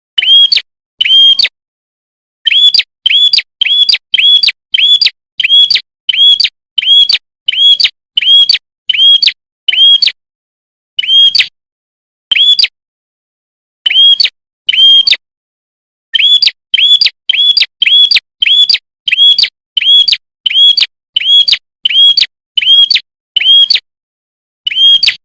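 A prenjak kepala merah (a small Indonesian prinia-type songbird) calling in loud, short, rising-and-falling chirps. The chirps come in fast runs of about two a second, broken by short pauses.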